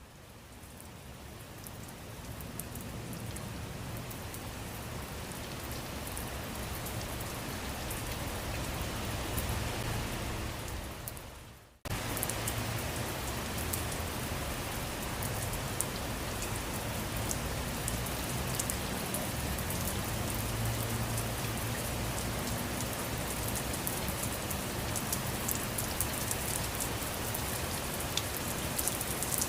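Steady rain falling on surfaces. It swells up over the first few seconds, fades to a brief dip about twelve seconds in, then cuts back in abruptly with individual drops ticking more sharply.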